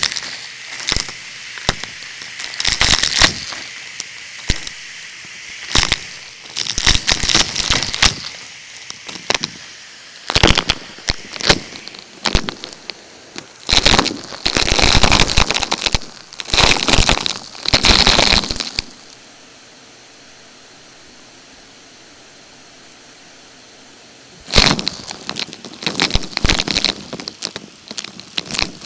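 Debris rattling and crackling in bursts as a Numatic canister vacuum cleaner sucks it up, over the steady noise of the vacuum. About two-thirds of the way through there is a quieter, even stretch of about five seconds with no rattling, before the crackling starts again.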